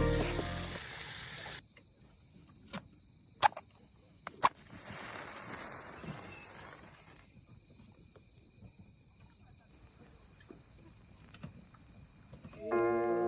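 Background music fades out, leaving quiet outdoor ambience with a steady high insect trill. A few sharp snaps come about three to four and a half seconds in, then a short hiss. Music comes back in near the end.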